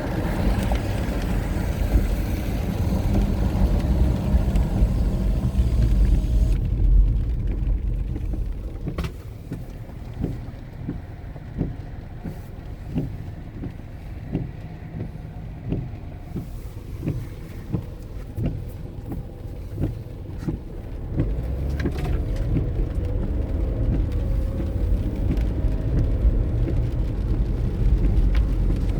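Car on the move: steady low rumble of engine and tyres. About a third of the way in it drops quieter and duller, with a run of soft regular knocks roughly every two-thirds of a second, then the fuller rumble returns.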